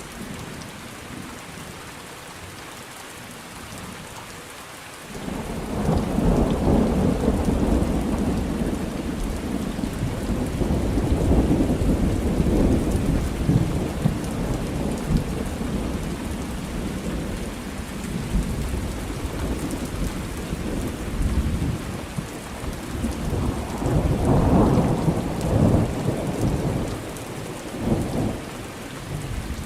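Thunderstorm: steady rain with a long roll of thunder. The low rumble breaks in suddenly about five seconds in, rolls on, swells again near the end and then eases off.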